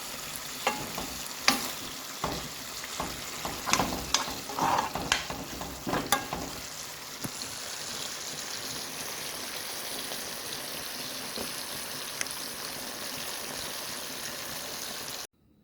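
Honey-glazed chicken wings sizzling in a pan, with clicks and scrapes of a utensil stirring and turning them through the first six seconds or so. After that the sizzling goes on steadily, then cuts off suddenly near the end.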